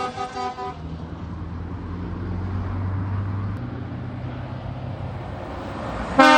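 Truck air horn sounding a quick run of short toots, then the low steady drone of a heavy diesel engine moving off. A loud horn blast comes right at the end.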